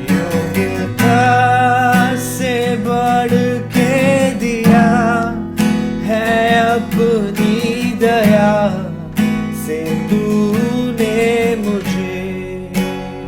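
Strummed acoustic guitar accompanying a man singing a worship song melody, the voice wavering and held on long notes.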